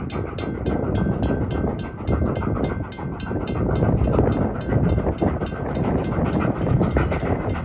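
Steam locomotive Canadian National No. 89, a 2-6-0 Mogul, running past with its train: a heavy rumble with a fast, even beat of about four or five strokes a second.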